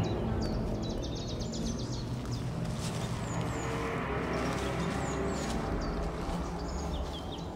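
Woodland ambience: small birds chirping and calling in short high notes over a steady low rumble.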